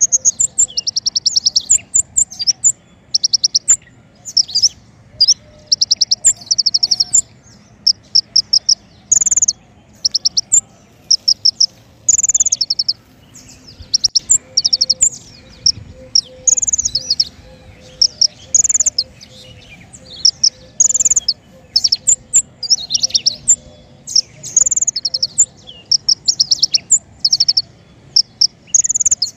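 Konin songbird singing: quick high trills and slurred chirping notes in short bursts, each about half a second long, with brief pauses between them.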